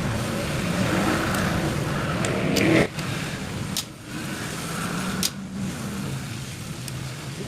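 A motor vehicle's engine running, swelling to its loudest a little before three seconds in and then dropping off sharply, with a few short clicks.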